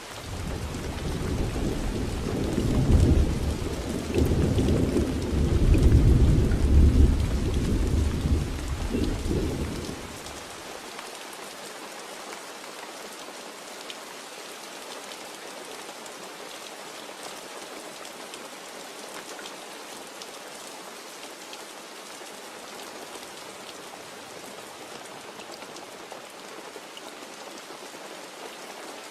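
Steady rain falling, with a long rolling rumble of thunder that swells twice and dies away about ten seconds in, leaving the rain alone.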